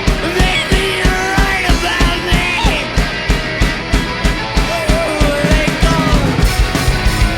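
Live rock band playing: drum kit keeping a steady driving beat under electric guitars and bass, with a bending melodic line over the top.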